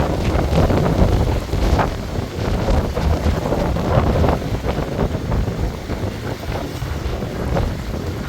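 Strong gusty wind buffeting the microphone in a heavy low rumble, with irregular splashes of choppy water.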